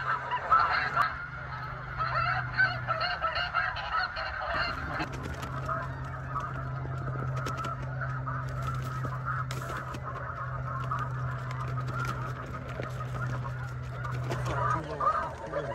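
A large flock of snow geese calling continuously, a dense chorus of overlapping high-pitched honks. A steady low hum runs underneath, dropping out briefly about three seconds in.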